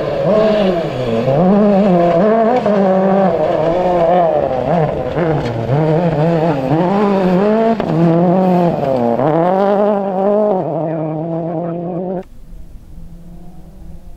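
Ford rally car's engine running hard at stage speed, the revs repeatedly climbing and dropping back as it is driven through the gears and corners. The engine sound cuts off abruptly about twelve seconds in, leaving a much quieter background.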